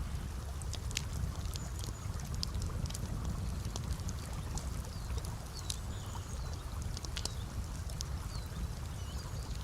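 Wood campfire crackling, with irregular sharp pops and ticks over a steady low rushing noise.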